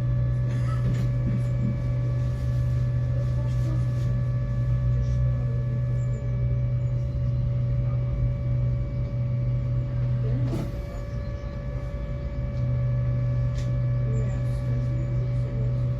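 Tram in motion: a steady low electrical hum with several thin high whining tones, and scattered light clicks and rattles. About ten seconds in there is a single knock, and the low hum fades for a couple of seconds before returning.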